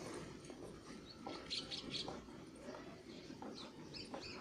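Small birds chirping: a quick run of short, high chirps about one and a half seconds in and a few more near the end, over a faint, even outdoor background.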